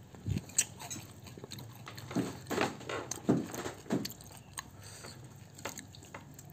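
A person chewing and biting fried catfish, eating by hand, with a few louder separate bites or chews between about two and four seconds in.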